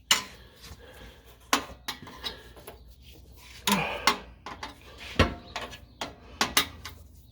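Scattered metal clinks and clanks of hand tools working on car exhaust parts, with a heavier, deeper knock about five seconds in.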